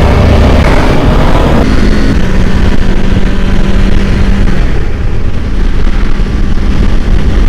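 Kawasaki Ninja 500's parallel-twin engine running while riding, with a dense low wind rumble on the microphone. The engine note holds steady, then eases a little about halfway through.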